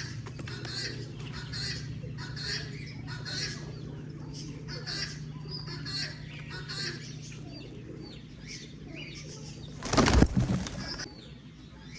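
Birds chirping in short calls repeated a little under once a second, over a steady low hum. About ten seconds in comes a loud flurry of wing-flapping lasting about a second.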